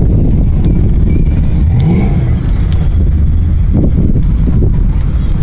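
Loud, steady car engine and exhaust rumble, with an engine revving up briefly about two seconds in.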